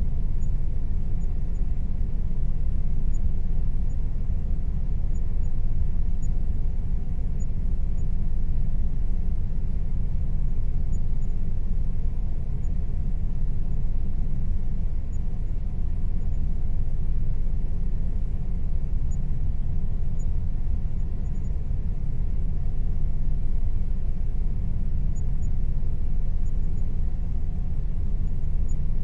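Air conditioner running: a steady low rumble with a faint steady tone above it, unchanging throughout.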